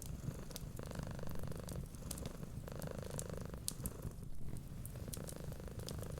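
A cat purring, its rumble swelling and easing about once a second with each breath in and out, with sharp crackles and pops from a fireplace fire scattered over it.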